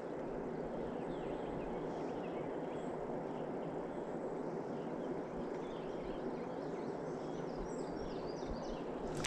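Steady rush of flowing river water, with faint bird chirps through most of it.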